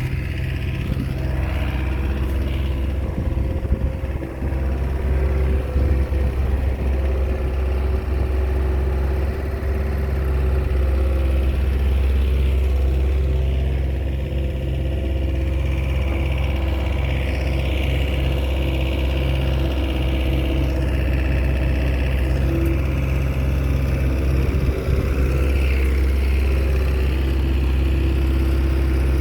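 Diesel engine of a small Komatsu crawler bulldozer running steadily with a deep drone, its level dipping briefly a few times as it works.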